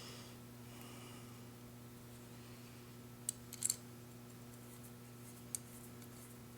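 Faint small clicks of metal carburetor parts being handled as an adjustment screw is threaded into the carburetor body: a few close together a little past the middle and one more near the end, over a steady low hum.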